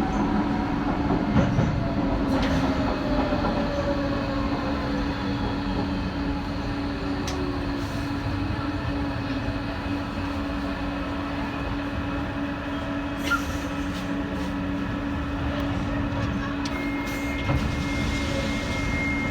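Docklands Light Railway train running, heard from on board: a steady hum, with a motor whine falling slowly in pitch over the first several seconds. A few sharp clicks come through, and a thin high steady tone sounds near the end.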